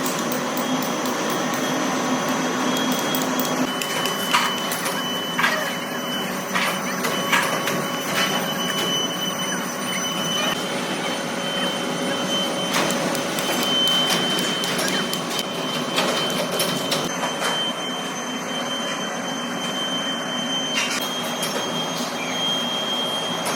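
Heavy workshop machinery running: a steady mechanical noise with a thin high whine, broken by scattered clicks and knocks.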